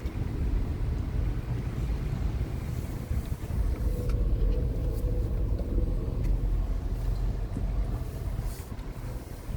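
Steady low rumble of a car on the move, with a faint hum coming in about four seconds in and fading after a couple of seconds.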